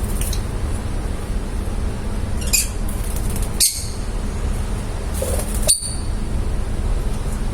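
Lovebirds giving a few short, sharp, high-pitched chirps, about four of them a second or so apart, over a steady low background rumble.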